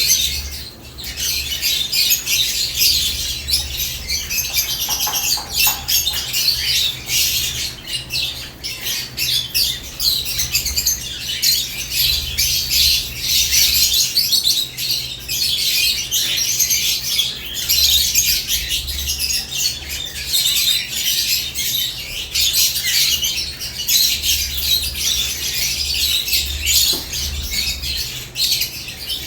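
Several caged lovebirds chirping and squawking non-stop in a dense, high-pitched chatter, over a steady low hum.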